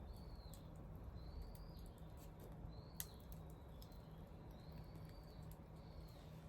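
Wood fire crackling faintly with scattered sharp pops, the sharpest about three seconds in, over a high, thin whistle that rises and falls about once a second.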